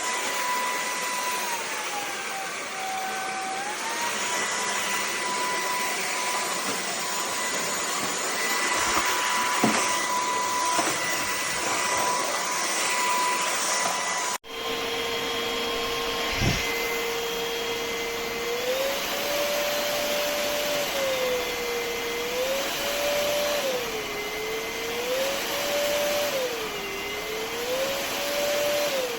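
Vexilar V9PRO cordless stick vacuum running, a steady rush of air under a motor whine that dips in pitch and recovers. About halfway through the sound breaks off abruptly and resumes with a lower whine that rises and falls again and again.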